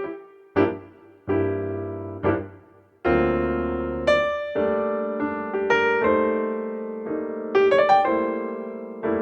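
Background piano music: gentle, slow chords and single notes, each ringing out and fading. It thins out almost to silence in the first few seconds, then fuller chords return about three seconds in.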